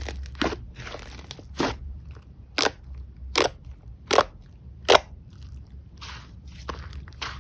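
Slime being squeezed and pressed by hand: soft squishing broken by sharp crackling pops, the loudest four coming in a row under a second apart in the middle.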